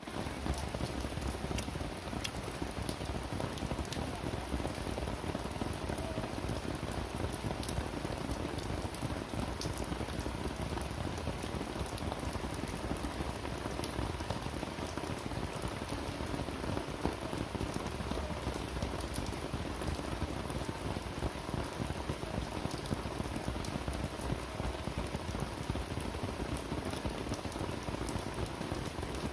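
Steady rain falling, a constant hiss with many small sharp drop impacts scattered through it.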